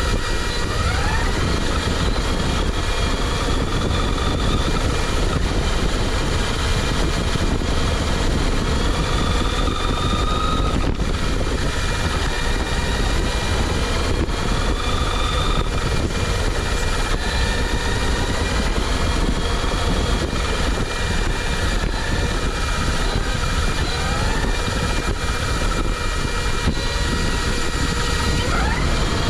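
FPV RC car (JLB Cheetah with an Apex 4076 brushless motor) driving, heard from its onboard microphone: a steady low rumble of wind and running gear, with a faint motor whine that rises and falls as the throttle changes.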